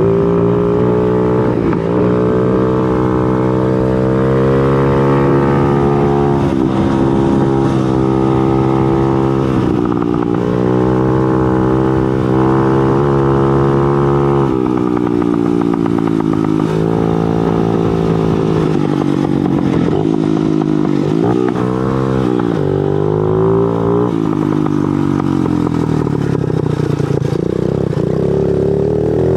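Motorcycle engine heard while riding, its pitch climbing and dropping again and again as the rider accelerates and changes gear, with a few quick up-and-down swings about two-thirds of the way through.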